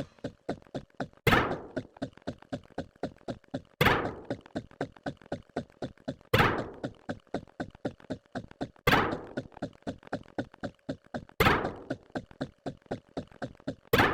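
A rapid, even run of short clicks or knocks, about four a second, with a louder hit that rings out briefly roughly every two and a half seconds.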